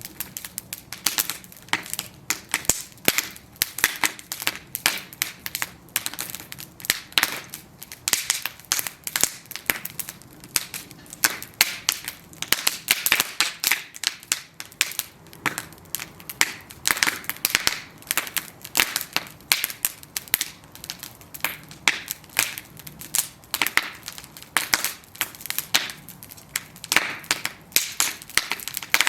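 Bonfire of burning wooden planks crackling: dense, irregular sharp pops and snaps, several a second, over a faint hiss of flame.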